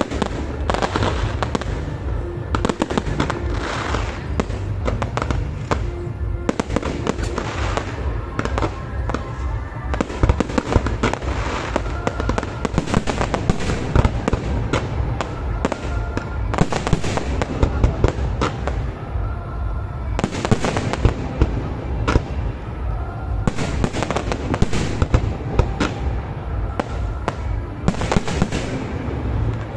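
A fireworks display going off without pause: dense, rapid bangs and crackling shells, with music playing underneath.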